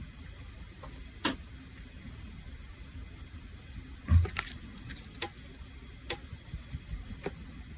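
Light clicks and taps of small hard objects being handled and set down, such as nail-care tools and polish bottles, a few seconds apart, with the loudest cluster about halfway through over a soft background hiss.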